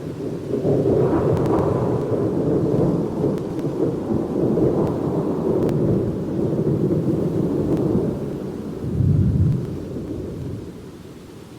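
Rolling thunder rumbling over steady rain, with a deep surge about nine seconds in before the rumble fades away near the end.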